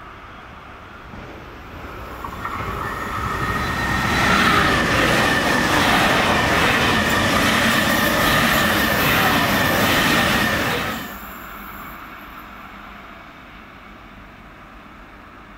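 An ICE high-speed train passing at speed: the rushing noise of wheels and air builds up, stays loud with a steady high singing tone for several seconds, and drops away abruptly about eleven seconds in as the last car goes by. A fainter rumble carries on after it.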